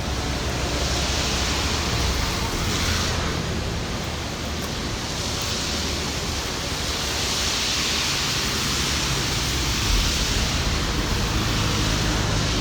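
Steady hiss of heavy rain, swelling louder twice in its higher range.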